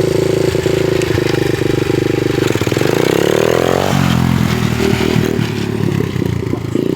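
Dirt bike engine running. About two and a half seconds in, the revs climb sharply for a second and a half, then drop off abruptly. The engine then runs unevenly at lower revs before settling back to a steady note near the end.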